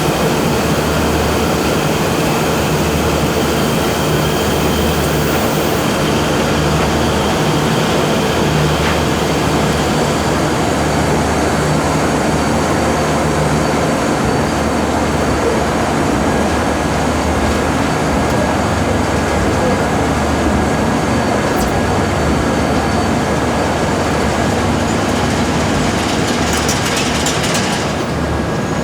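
Food-factory machinery running steadily, a loud even noise over a low hum that throbs unevenly.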